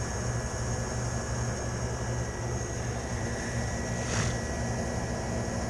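Refrigeration condensing unit running steadily, a low motor hum with a faint high whine over it, while refrigerant is being charged into the system. A short hiss about four seconds in.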